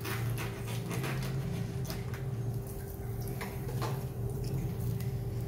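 Sweet potato slices being set one by one into hot ghee in a steel kadhai, with light sizzling and scattered small pops and ticks. A steady low hum sits underneath.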